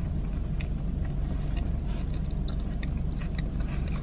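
A person chewing a mouthful of burger, faint irregular wet clicks and crunches, over a steady low hum inside a car.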